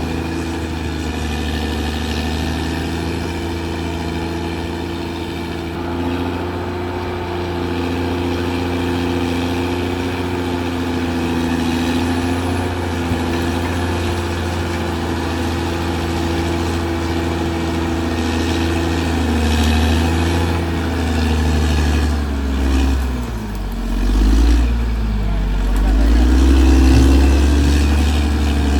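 Caterpillar D6R XL bulldozer's diesel engine running steadily; near the end its pitch dips and comes back up twice.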